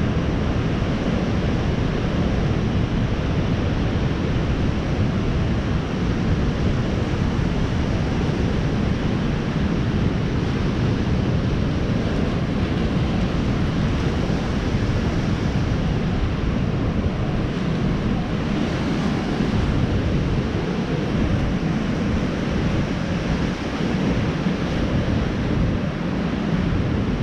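Ocean surf breaking and washing ashore, heard as a steady low rumble mixed with wind buffeting the microphone.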